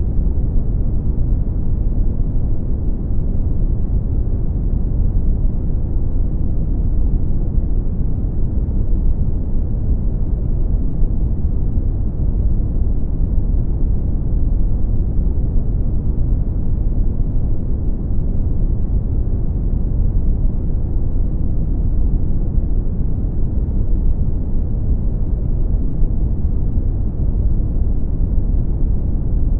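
Brown noise: a steady, deep noise with its weight in the low end and little hiss on top, with no rhythm or change throughout.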